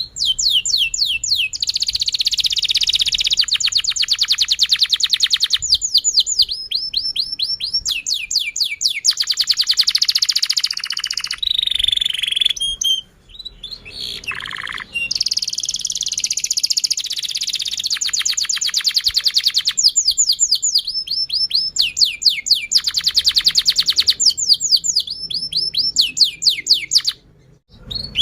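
Domestic canary singing a long, continuous song of rapid trills, each a fast run of repeated downward-sweeping notes, with one short break about halfway and another near the end.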